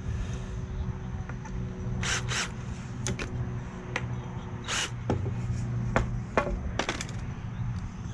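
2x4 lumber being handled while fitting a screw: scattered wooden knocks and clicks, with a few short scraping rubs about two and five seconds in, over a steady low hum.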